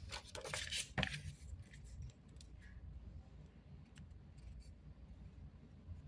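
Tarot cards being handled on a table: a brief rustling slide in the first second ending in a sharp tap, then a few faint clicks.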